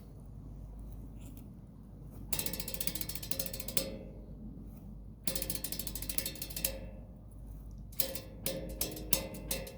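Improvised percussion on natural objects. Two runs of rapid rattling clicks, like a ratchet, come after a quiet start; near the end, separate strikes follow, each with a short ringing tone.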